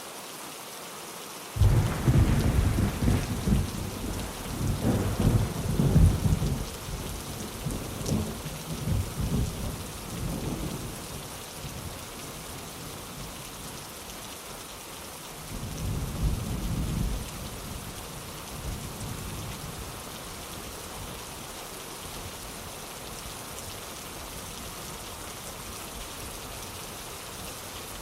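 Steady rain with thunder. A sudden thunderclap comes about a second and a half in and rolls on in waves for about ten seconds, then a second, shorter rumble of thunder follows a little past the middle.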